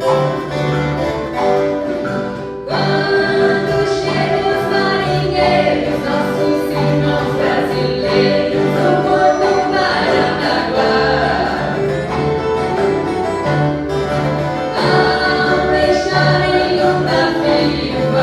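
A viola caipira orchestra playing a Christmas song while a group of voices sings together. The music fills out about three seconds in.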